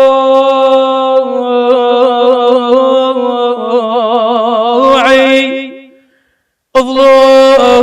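Unaccompanied lament chanting (na'i): a single voice holds a long, wavering, ornamented note, breaks off about six seconds in, and starts a new phrase under a second later.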